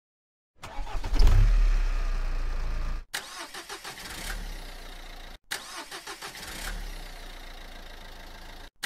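Dubbed car engine sound effect: an engine starts about half a second in and runs loudly, then cuts off abruptly. It is followed by two quieter clips of the engine running, each ending in a sudden cut.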